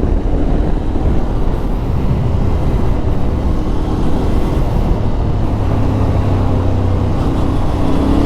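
Yamaha Ténéré 700's parallel-twin engine running steadily while the bike is ridden along the road.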